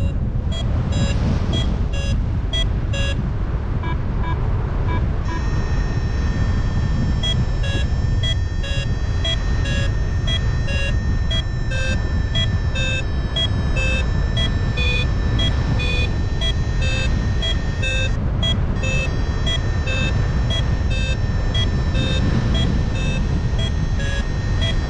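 Paragliding variometer beeping in a quick, steady series of short tones, about three a second, the sign that the glider is climbing in lift, over steady wind noise on the microphone. A continuous high tone joins from about five seconds in.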